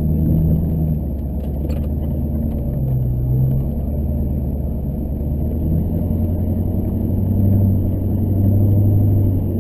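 Chevrolet Duramax LB7 6.6-litre V8 turbodiesel running, a steady low hum heard from inside the pickup's cab, getting a little louder about three quarters of the way through.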